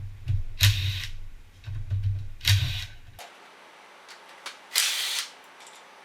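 Hand tools working on the water pump cover bolts of a KTM 250 EXC-F engine: three short bursts of clicking, with fainter clicks between them.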